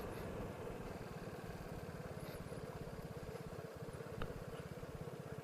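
Vespa scooter engine running steadily with an even, fast putter, with a brief click about four seconds in.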